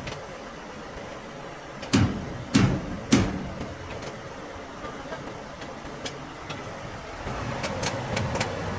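Three loud knocks about half a second apart, two to three seconds in, then a few faint clicks over a steady background hum.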